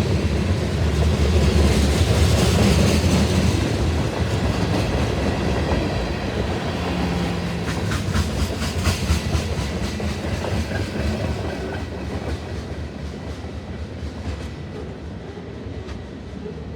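Train rolling past, its wheels clacking over rail joints, the sound gradually fading as it moves away.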